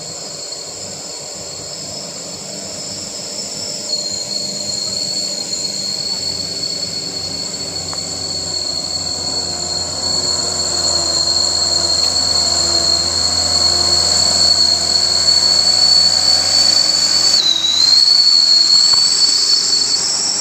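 Heavy truck engine working under load, growing louder as it approaches, with a steady high-pitched whistle over it that briefly dips in pitch near the end.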